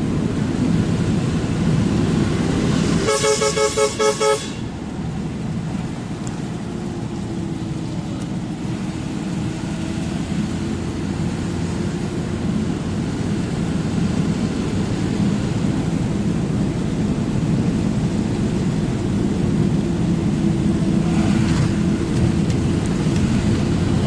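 Steady engine and road drone from a truck on the move. About three seconds in, a vehicle horn sounds in a quick run of short toots lasting just over a second.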